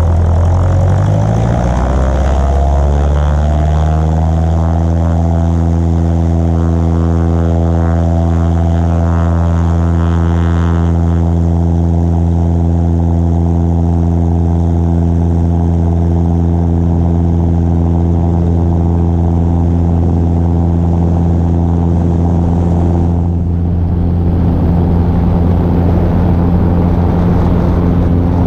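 Cessna 152's four-cylinder Lycoming piston engine and propeller, heard from a wing-mounted camera, rising in pitch over the first few seconds as power comes up for takeoff, then holding a steady, even drone at full power. The sound dips briefly a little over twenty seconds in.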